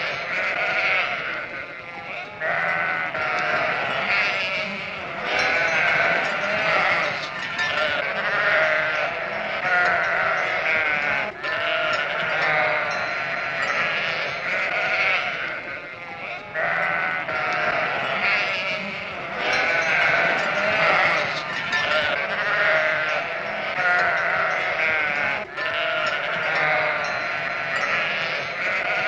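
Sheep bleating, one call after another with hardly a pause.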